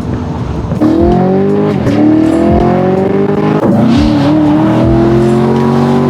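A car engine accelerating hard through the gears: its note climbs, drops sharply at two quick upshifts about two and three and a half seconds in, then climbs again in one long pull to the end.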